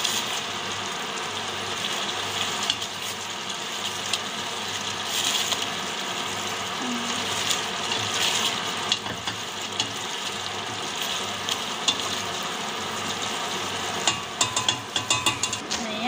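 Chicken and chicken liver sizzling in a stainless steel pot while a spoon stirs them, scraping and clicking against the pot. The scraping strokes come quicker and thicker near the end.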